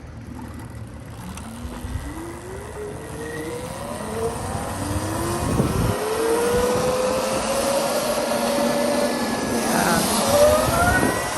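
Electric pit bike's motor whining, climbing steadily in pitch as it accelerates for several seconds, then easing off about ten seconds in and climbing again. Wind rumbles on the microphone underneath.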